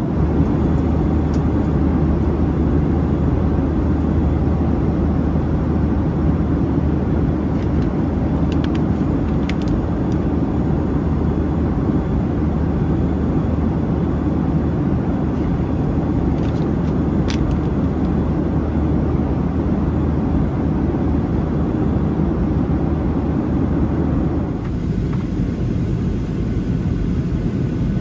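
Steady rumble of a Boeing 737-800's CFM56 engines and airflow heard inside the cabin, with a low hum and a few faint clicks. About 24 seconds in, the sound abruptly becomes quieter and duller.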